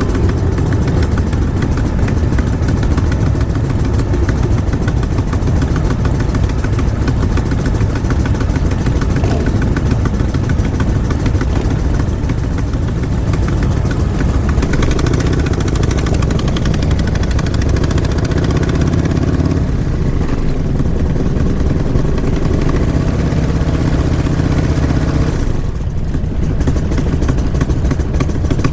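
Motorcycle engines running steadily in a low, continuous rumble, with some revving partway through.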